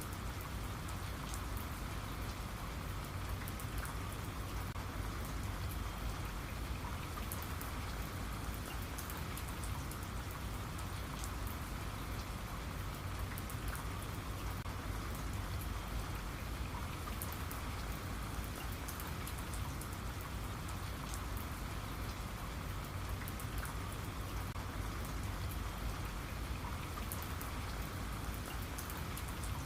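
Steady rain falling, with many small drop ticks over an even hiss and a low rumble.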